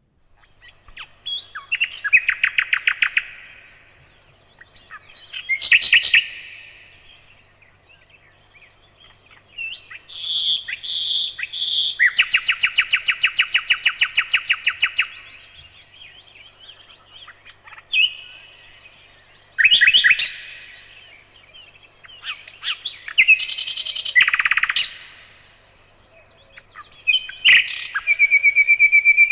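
Nightingale singing: a series of short, loud phrases of rapidly repeated notes and rattling trills, each a second or two long, separated by brief pauses.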